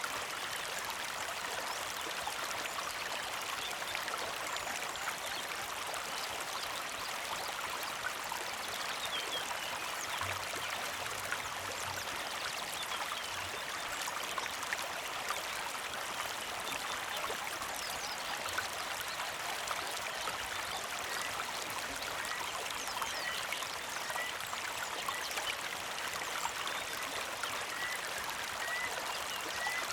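Shallow creek flowing and trickling steadily over stones. From about two-thirds of the way in, a small bird gives a short chirp roughly once a second.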